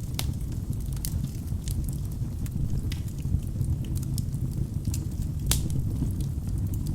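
Wood fire burning in a fireplace: a steady low rumble of flames with scattered sharp crackles and pops from the logs, the loudest pop about five and a half seconds in.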